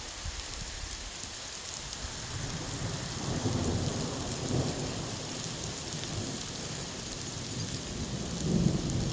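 Heavy rain falling steadily, with low rumbles of thunder swelling about three seconds in and again near the end.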